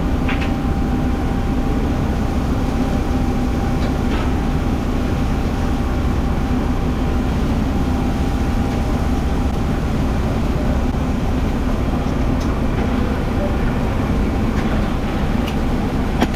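A steady mechanical drone with a constant low hum and a faint higher held tone, unchanging throughout, with a few faint clicks.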